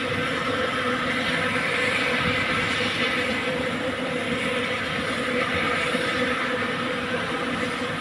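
Helicopter running nearby: a steady engine whine over a dense, unbroken rushing noise from the rotors.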